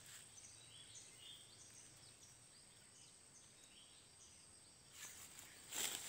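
Near-quiet forest background with faint, short, high chirps of small birds scattered through most of it; about five seconds in, a louder rustling noise starts.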